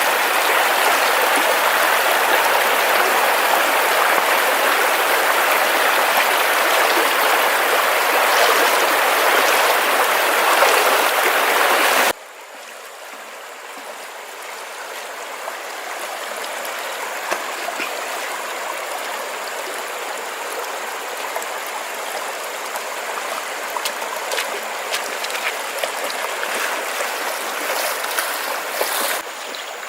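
Flowing water, a steady loud rush for about twelve seconds, then cutting suddenly to a quieter, gentler flow that slowly grows.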